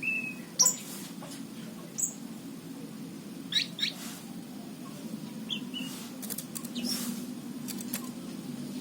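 Anis cendana (orange-banded thrush) giving scattered short, squeaky chirps, with a pair of quick notes near the middle, over a steady low hum.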